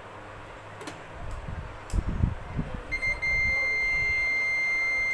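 A few low handling knocks, then about three seconds in a multimeter's continuity buzzer starts: a steady, high-pitched electronic beep that holds on, the sign of the probes touching a conducting path.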